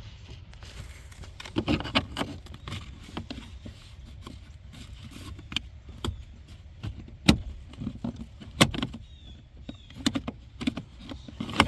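Scattered clicks and knocks of a fuse panel cover being handled and fitted back into place in a car interior, with two sharp louder knocks past the middle.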